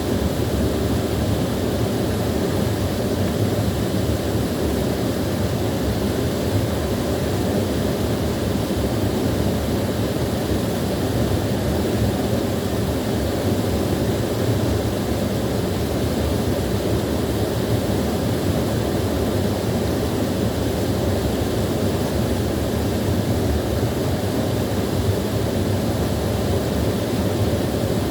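Small waterfall running steadily, a constant low rush of falling water with no change throughout.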